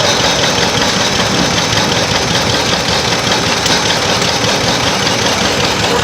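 Engine of a vintage vehicle running steadily and loud close up, with a rapid, even firing beat.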